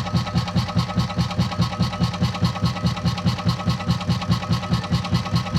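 Sanyo SW700XT washing machine's spin-dryer motor running with its spinning tub, a steady hum with a rhythmic pulsing about six times a second. A new capacitor has got the motor turning, but the spin is weak and the motor still smells burnt, a sign the motor itself is failing.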